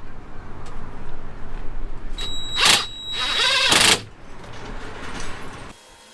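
A power tool driving fasteners, running in two short bursts whose pitch winds up and down, over a low background rumble that cuts off near the end.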